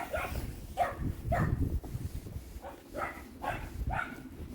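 Border collie barking in short, high yips, about eight spread over a few seconds, the excited barking of a dog waiting for a ball to be thrown.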